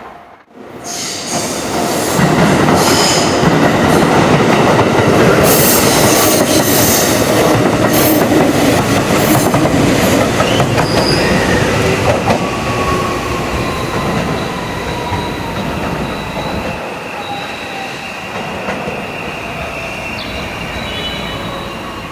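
A train running close by at the platform: a loud rolling rumble with high wheel squeal that peaks over the first half and slowly fades, while a whine falls steadily in pitch through the second half.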